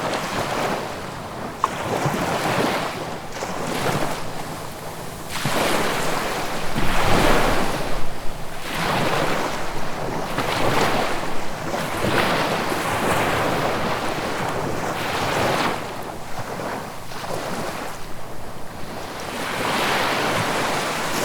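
Sea waves breaking and washing on the shore, the surf swelling and ebbing in repeated surges every few seconds. The biggest one comes around the middle.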